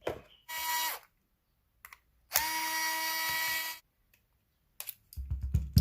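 Small electric screwdriver motor whining in two bursts, a short one and then one of about a second and a half, its pitch rising briefly as it spins up, backing out the hair clipper's two screws. Soft handling knocks near the end.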